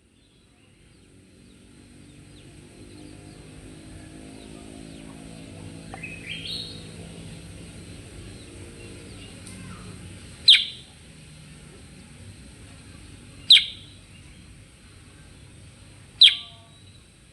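Kutilang sutra giving single short, sharp chirps, three of them about three seconds apart in the second half, after one rising call about six seconds in. A low steady hum and a faint high hiss lie under the calls.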